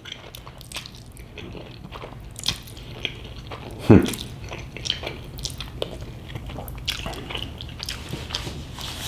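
Close-miked chewing and biting of food: wet mouth clicks and small crunches, with one louder thump about four seconds in.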